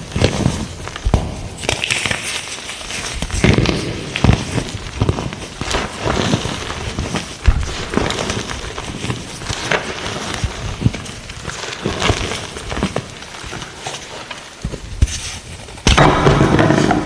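Gym chalk being crushed: repeated crisp crunching and crackling as the chalk breaks and crumbles. A louder, denser crunch comes near the end.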